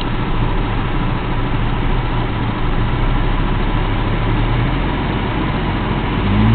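1993 Ford Mustang's 2.3-litre four-cylinder engine idling low and choppy with the air conditioning switched on, the compressor load dragging the idle down further; the owner suspects the idle is set too low or a sensor is at fault. The engine note rises a little near the end.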